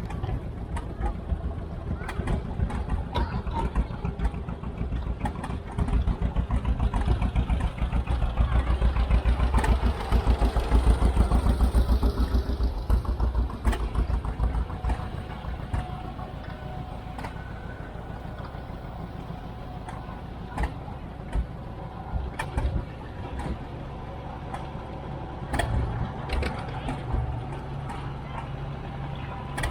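Farm tractor engine running with a rapid low pulsing, louder from about six seconds in to about fourteen, then easing off.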